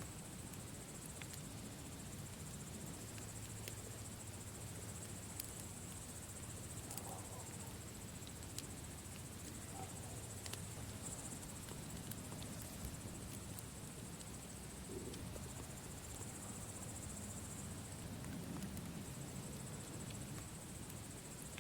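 Campfire crackling with scattered sharp pops, over a steady high chirring of crickets.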